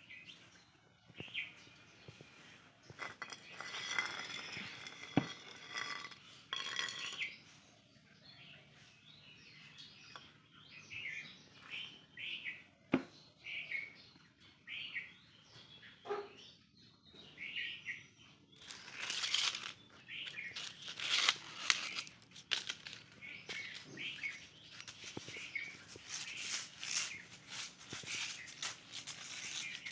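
Small birds chirping over and over in short calls, with scratchy rustling sounds in the second half.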